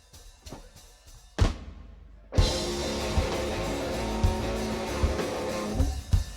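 Live rock band with drum kit and electric guitars: a few soft ticks and a single crash, then the full band kicks in about two and a half seconds in and breaks off abruptly near the end, a false start.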